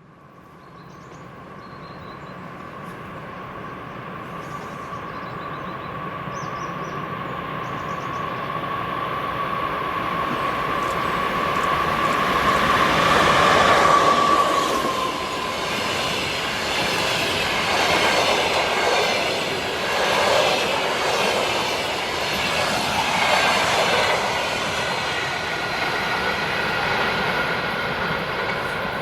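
EP2K electric locomotive hauling a passenger train past on the main line. A steady high whine grows louder as it approaches and peaks as the locomotive goes by about halfway through. After that the coaches run past with rhythmic wheel clatter over the rail joints, swelling every few seconds.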